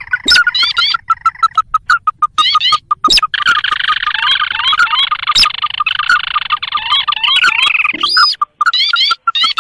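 Recorded sintar crake calls played as a bird-trapping lure: quick rising whistled notes repeated in runs over a fast, even series of clipped notes, with several calls overlapping and thickest in the middle.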